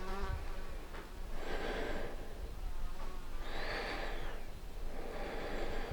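A person breathing audibly close to the microphone: three soft, airy breaths about a second and a half apart, over a faint low hum.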